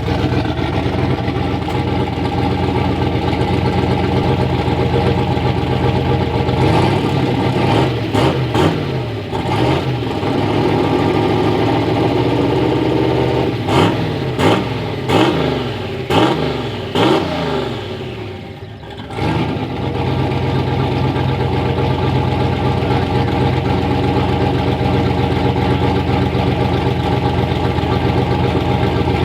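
Rebuilt Ford Ranger truck engine running, revved up and down several times between about 7 and 19 seconds in. It sags briefly near 19 seconds, then settles into a steady idle.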